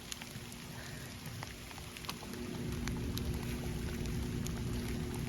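Steady heavy rain, with scattered individual drops ticking sharply close by.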